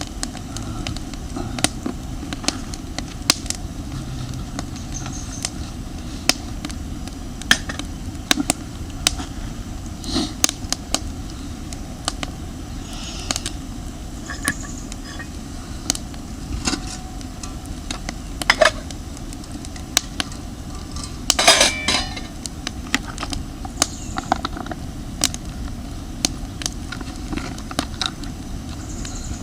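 Metal camp cookware being handled, with irregular sharp clinks and clanks and a louder ringing clatter a little past the middle, over a steady low rumble.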